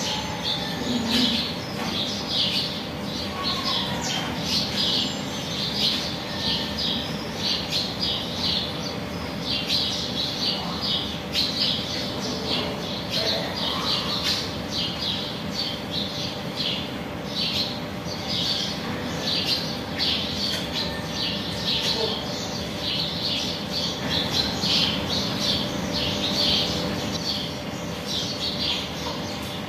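Birds chirping over and over in short, high, rapid chirps.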